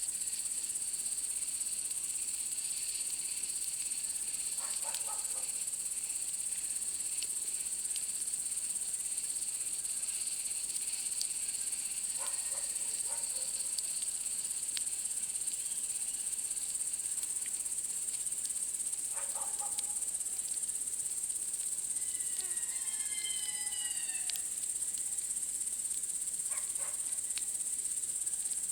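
Steady high-pitched chorus of night insects, with faint scattered crackles from a campfire. A few short, faint calls of some animal sound every several seconds, with a quick run of gliding chirps a little past the middle.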